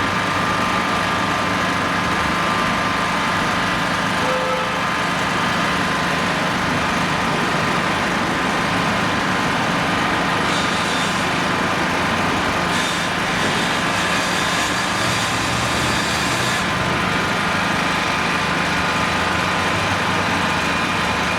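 Engine running steadily at idle with a constant hum and a steady high whine. About halfway through, a hiss joins in for several seconds and then stops.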